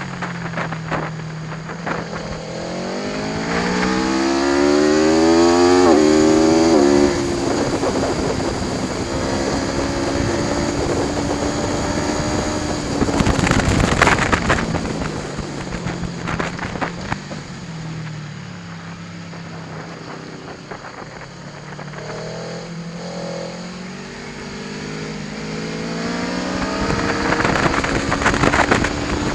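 Aprilia Tuono V4 1100 Factory's V4 engine under hard riding. The revs climb steeply, drop at a gear change, fall back around halfway with a burst of crackle, then climb again near the end.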